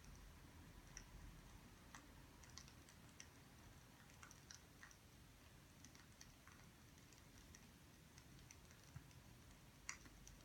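Faint, irregular crackles and pops of burning firewood over a low steady hum, with a slightly sharper pop near the end.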